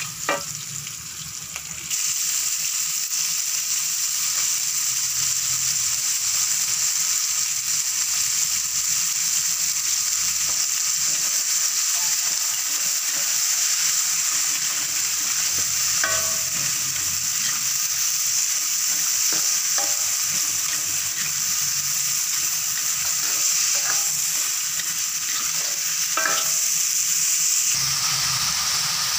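Chopped aromatics sizzling in hot oil in a wok as a steady hiss, stirred with a wooden spatula that scrapes the pan a few times. The sizzle grows louder about two seconds in.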